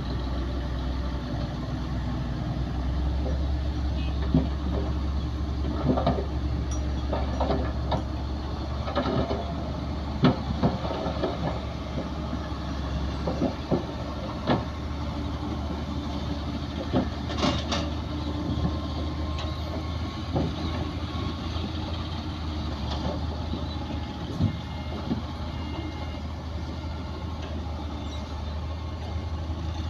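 Heavy earthmoving machinery running with a steady low engine rumble, with scattered metallic clanks and knocks.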